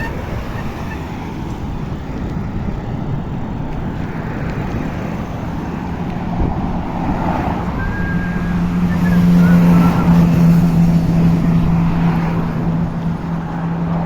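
Road traffic noise on a cycle ride, with a steady rushing haze. About eight seconds in, a vehicle's low steady drone comes up and is loudest a couple of seconds later.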